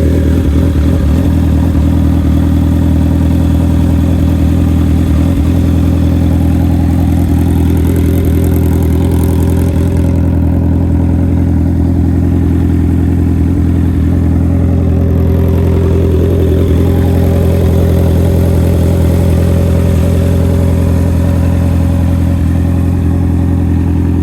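2023 Honda CB650R's inline-four engine idling steadily through a KO Lightning aftermarket exhaust, just after starting. It is loud.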